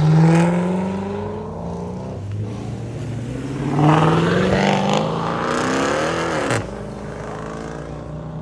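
Car engine revving hard as it accelerates away, with a second rising pull a few seconds in that drops and cuts off sharply about six and a half seconds in.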